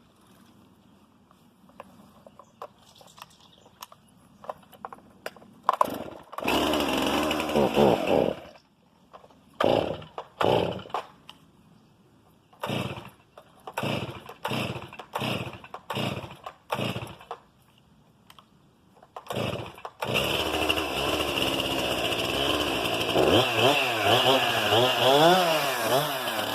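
STIHL MS 261 C-M two-stroke chainsaw being started. Faint clicks come first, then the engine fires and runs for a couple of seconds before stopping. A quick string of short bursts follows, and about twenty seconds in it catches and keeps running, its engine speed rising and falling repeatedly near the end.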